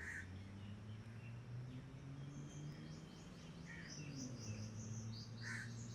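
Faint background of small birds chirping: a quick run of short, high, repeated notes from about two seconds in, with a few single calls, over a low steady hum.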